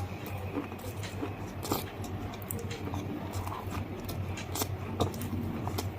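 Close-up crunching and chewing of hard, brittle food: scattered sharp cracks and crackles, with a steady low hum underneath.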